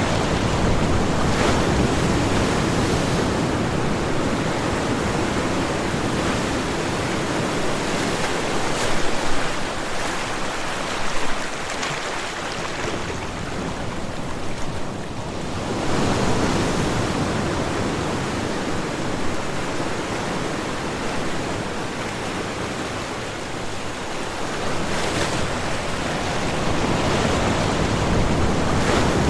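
Ocean waves breaking on a shore: a continuous rush of surf that swells and ebbs as successive waves break and wash back, a couple of them briefly louder.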